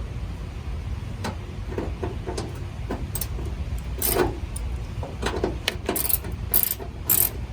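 Irregular metallic clicks and clinks of a hand tool at work while the inner fender liner's screws are being undone, over a steady low rumble.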